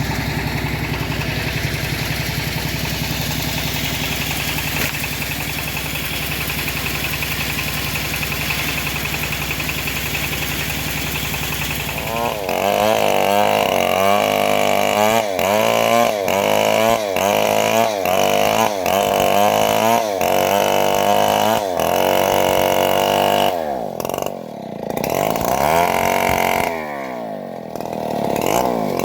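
An engine-driven homemade bandsaw mill: the engine runs at a steady low idle, then about twelve seconds in switches to a louder, higher-revving running note. The pitch wavers up and down in a regular rhythm, and near the end it briefly sags twice and climbs back.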